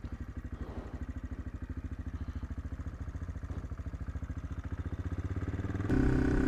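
AJP PR7's single-cylinder engine idling with a fast, even beat. About six seconds in it becomes suddenly louder and steadier as the throttle is opened.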